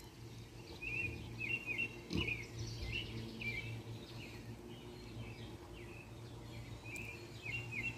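A songbird chirping in quick short notes, about three a second, in two runs, over a steady low background hum; one brief soft knock about two seconds in.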